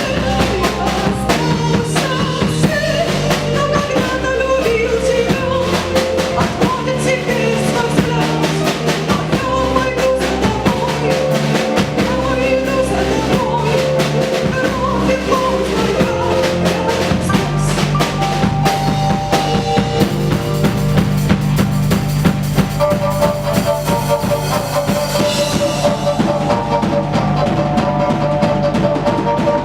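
Live band playing an instrumental passage, led by a full drum kit with bass drum and snare rimshots under bass and sustained melody notes. From a little past halfway, long held melody notes ride over the drumming.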